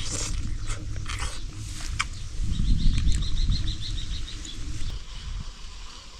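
A quick run of about a dozen short, high chirps, an animal call, starting about two and a half seconds in and lasting about two seconds, over a steady low rumble and a few light clicks.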